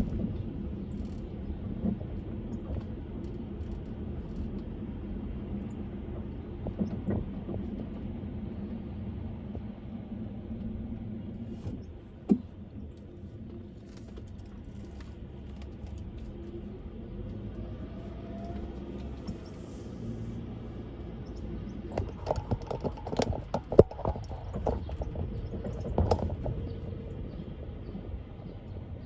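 Car driving at speed: a steady low road and engine rumble, with a single sharp knock about twelve seconds in and a cluster of knocks and rattles near the end.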